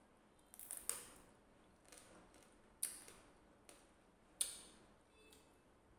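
Close-miked crunching from eating crisp papaya salad: three short, sharp crunches about a second and a half apart, with fainter clicks between them.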